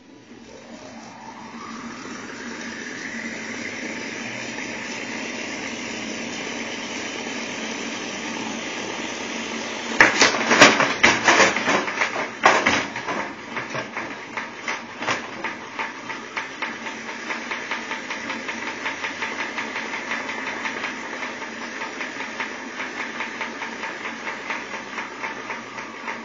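Electric motor spinning a wooden arm with wheels on a test rig, its whine rising in pitch as it speeds up over the first few seconds, then holding steady at high speed. About ten seconds in, a wheel comes off with a burst of loud crashes and clattering as loose parts fly into the rig. A rapid, steady knocking follows as the arm keeps spinning.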